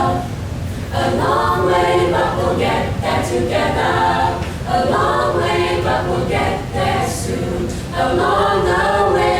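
A small choir singing unaccompanied in harmony, in sung phrases with short breaths between them.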